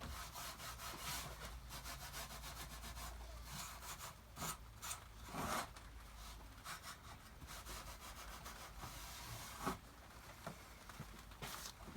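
Faint rubbing on the wooden tool box, with a few short knocks.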